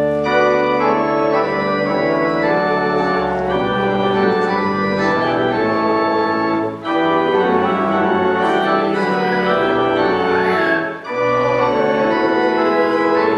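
Church organ playing held chords in phrases, with short breaks between phrases about 7 and 11 seconds in.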